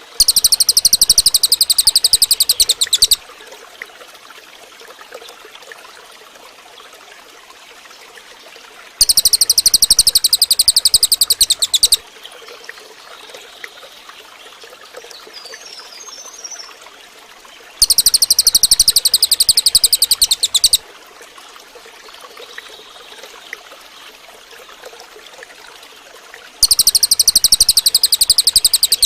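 Cililin bird song: a loud, very rapid high trill lasting about three seconds, repeated four times about nine seconds apart. A faint steady trickle of water runs underneath, with a few soft chirps between the trills.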